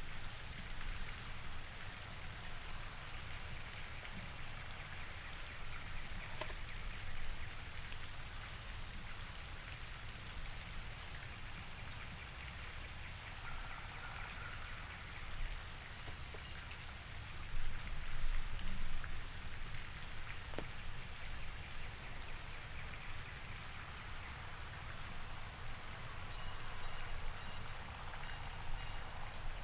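Light rain pattering steadily, with a low rumble of wind on the microphone and a few faint ticks.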